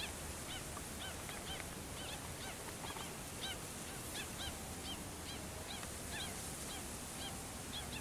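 Faint, rapid chirping calls of the birds circling overhead: short down-curving notes, about two or three a second, repeated over a light background hiss.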